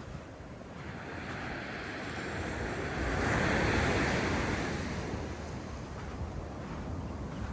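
Ocean waves breaking and washing up on a sandy beach, one wave swelling to a peak about halfway through and then receding, with wind rumbling on the microphone.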